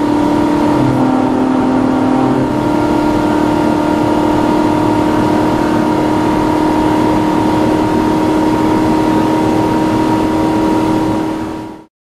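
In-cabin sound of a 1990 Porsche 928 S4's V8 running at a steady engine note under way, over road and wind noise. The pitch shifts slightly in the first couple of seconds, then holds, and the sound cuts off just before the end.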